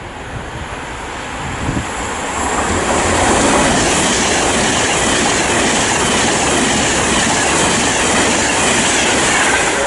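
Class 390 Pendolino electric train passing through the station at speed without stopping: a loud rush of wheels on rail and air that builds over a couple of seconds, then holds steady.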